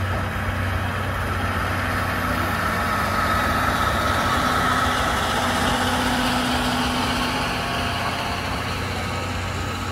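A slow-moving train of passenger coaches behind a C11 steam locomotive, running with a steady low machine hum and a faint whine that grows a little louder in the middle and then eases.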